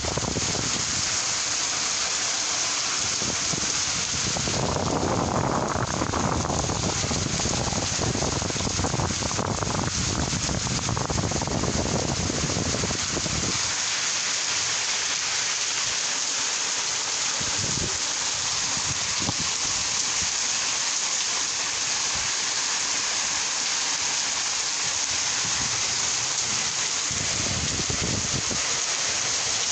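Steady rain falling, a village rainstorm. A low rumble underneath the rain in the first half drops away about halfway through.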